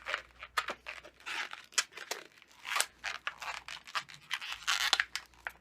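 Latex twisting balloons being worked by hand into a pinch twist: rubber rubbing and crinkling in a quick series of short scratchy bursts and sharp clicks.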